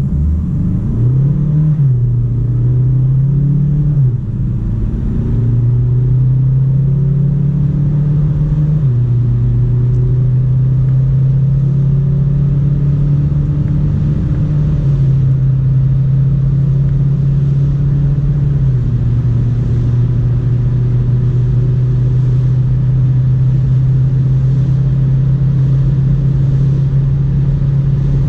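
Hyundai Tucson's 2.0-litre four-cylinder diesel pulling hard under full throttle through its 8-speed automatic. The engine note rises and drops back at each upshift, twice in quick succession in the first few seconds, then changes pitch in steps a few more times as the speed climbs.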